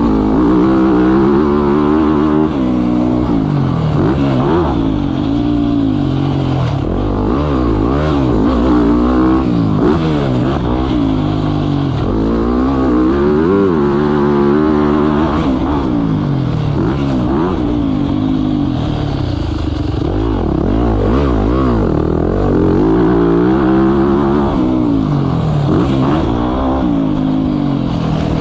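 Motocross bike engine ridden hard around a track, revving up and dropping back over and over as the throttle is opened and shut and the gears change.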